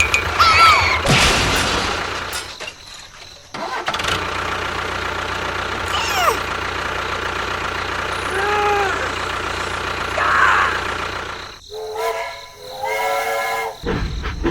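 Steady engine-like running noise with several short gliding whistle-like sounds over it, and two short horn-like tones near the end.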